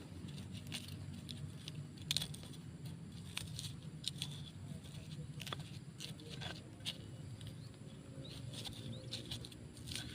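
Spices being ground into a paste: irregular sharp clicks and taps over a low steady hum.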